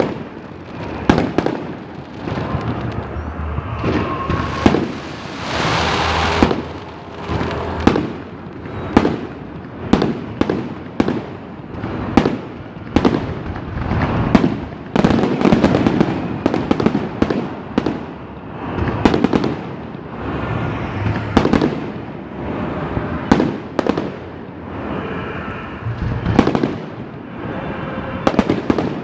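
Fireworks display going off: a steady run of sharp bangs from shells bursting, about one or two a second, with denser crackling stretches around six and fifteen seconds in.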